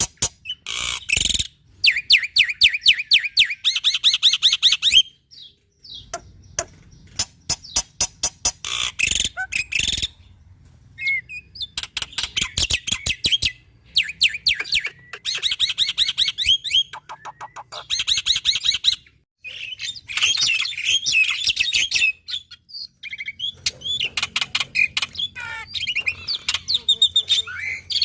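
Black-winged myna (jalak putih) singing loudly: long runs of fast, repeated sharp notes mixed with high warbling and chattering phrases, broken by brief pauses a few times.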